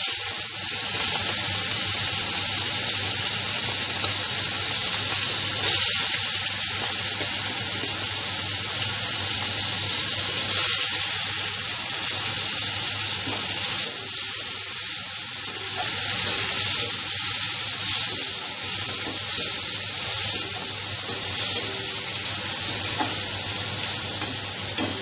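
Whole prawns sizzling and crackling in hot mustard oil in a wok, the loud sizzle starting suddenly as they go into the oil; a spatula turns them near the end.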